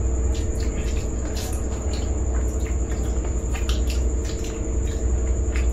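Mouth noises of eating crisp fuchka (pani puri) shells filled with curd: irregular crunching and wet chewing crackles. Underneath is a steady low hum and a faint high whine.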